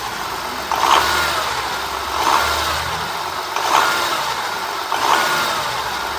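Volkswagen Amarok engine idling with its accessory belt off, with a short squeak that comes back about every second and a half from inside the engine. The mechanic takes it for an internal noise from poor lubrication, possibly the timing chains squealing.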